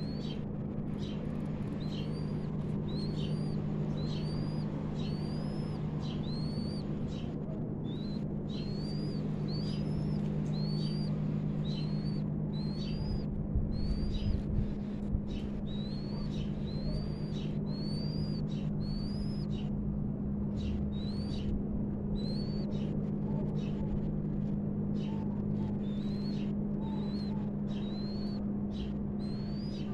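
A bird repeatedly chirping with short calls that rise and fall, about one a second, over a steady low hum.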